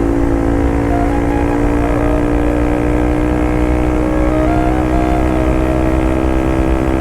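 Bajaj Pulsar RS200's single-cylinder engine and exhaust running steadily at high revs under way, the engine note holding a near-constant pitch.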